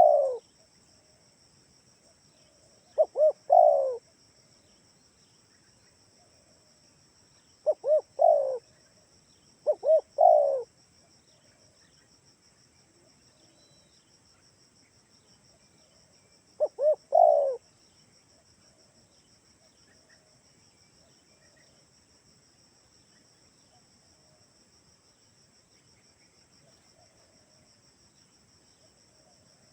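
Spotted dove cooing: phrases of two short coos and a longer falling coo, repeated with gaps of a few seconds and ending about eighteen seconds in. A steady high insect drone continues underneath.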